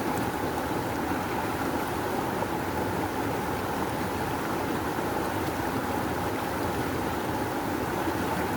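Rushing river water flowing strongly, a steady, unbroken wash of sound.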